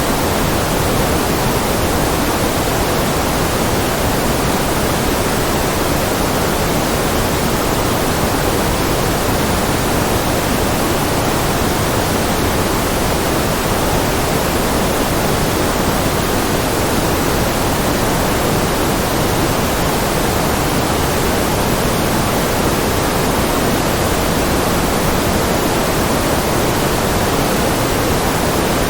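Continuous generated noise from a white-noise track: a steady, unchanging hiss with more weight in the lower, rushing range than in the treble, close to pink noise.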